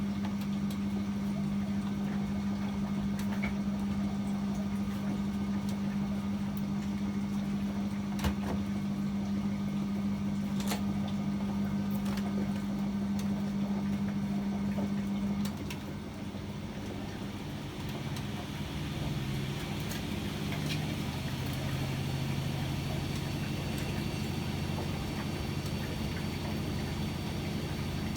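Privileg 804 washing machine running: a strong steady electric hum that cuts off about halfway through, then a lower, quieter hum comes in, with a few short clicks along the way.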